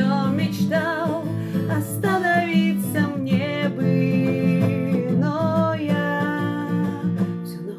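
Acoustic guitar strummed in chords while a voice sings the melody, with held notes wavering.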